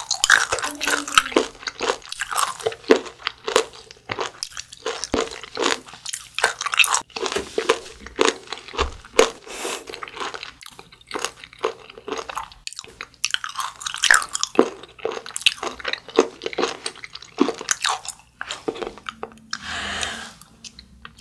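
Close-miked chewing of fermented skate (hongeo), with many short, dense crunches. A brief vocal exclamation comes near the end.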